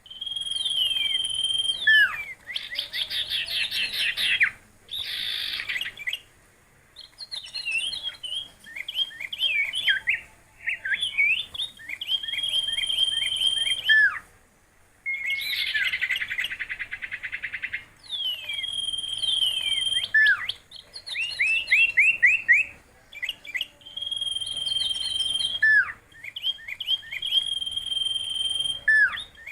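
A songbird singing in repeated phrases: held high whistles, fast rattling runs of notes and sharp downward-sweeping notes, with short pauses between phrases.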